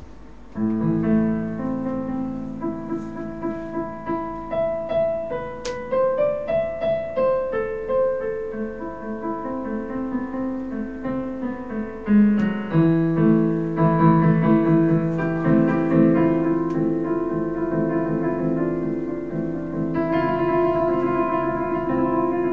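A piano tune played back from a recording: slow melody and chords of held notes, starting suddenly about half a second in and growing fuller near the end.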